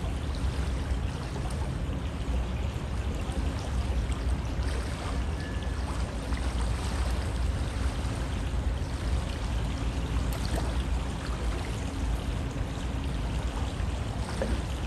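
River flowing steadily: an even rush of moving water with many small splashes and gurgles.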